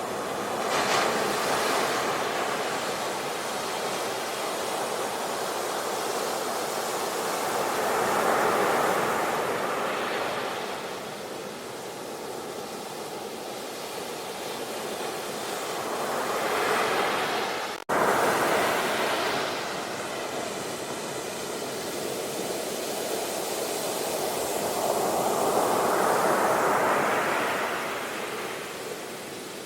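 Ocean waves breaking and washing back, swelling four times about eight seconds apart, with one brief sudden dropout in the sound about two-thirds of the way through.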